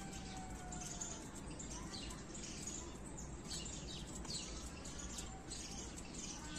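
Faint chirping of small birds: many short, high chirps and twitters over a quiet background.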